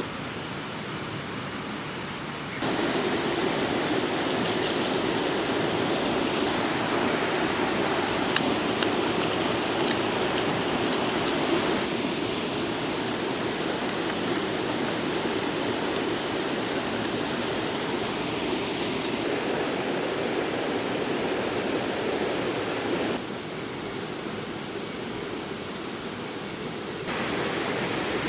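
River water rushing steadily, a continuous even roar. It is quieter for the first couple of seconds and again for a few seconds near the end, stepping abruptly up and down.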